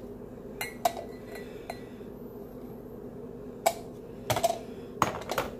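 Glassware clinking and knocking as the espresso maker's glass carafe and a glass whiskey tumbler are handled: a few sharp clinks in the first two seconds, one leaving a short ring, then more knocks near the end.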